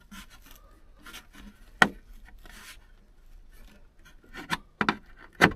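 Hands and a tool rubbing and scraping along a pickup truck's headliner and cab trim while feeling for a retaining clip. There is a sharp click a little under two seconds in and a few knocks near the end.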